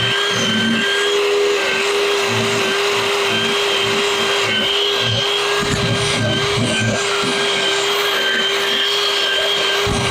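A carving tool running steadily: a constant whine over a hiss, with uneven low rumbles coming and going.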